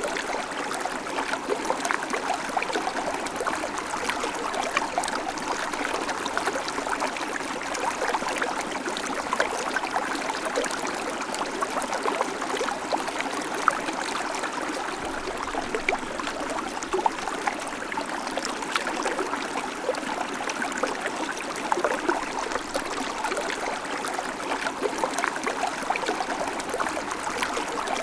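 Babbling creek: shallow water running steadily over stones, with constant small splashes and gurgles.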